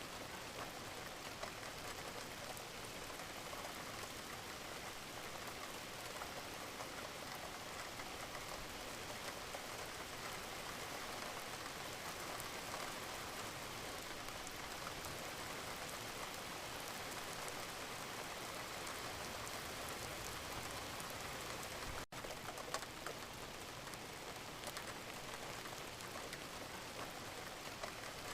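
Wood fire crackling and hissing steadily in a fireplace, with a brief cut in the sound about 22 seconds in and a sharper pop just after.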